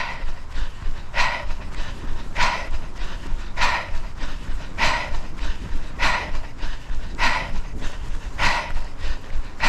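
A runner breathing hard into a close microphone, with a forceful puff of breath about every 1.2 seconds, over a steady low rumble.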